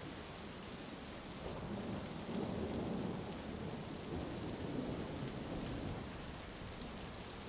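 Steady heavy rain with a rolling rumble of thunder that builds about a second and a half in, peaks in the middle and dies away a little before the end.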